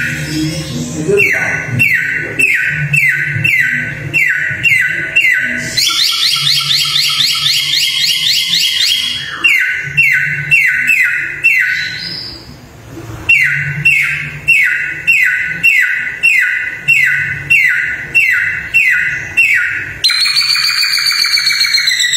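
Samyong songbird singing a run of sharp, repeated whistled notes, each sliding down in pitch, about three a second. It breaks into a fast trill about six seconds in and ends with a long wavering whistled phrase.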